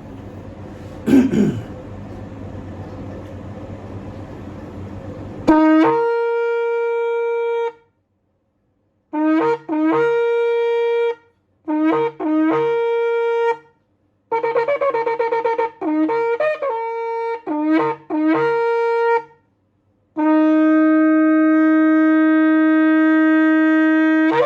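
A very large SJ-size shofar, about 49 to 50 inches long, being blown. After a few seconds of hiss and a brief rustle, it sounds one held blast, then several short blasts that step up in pitch. A run of quick broken notes follows, and near the end a long, steady, lower blast.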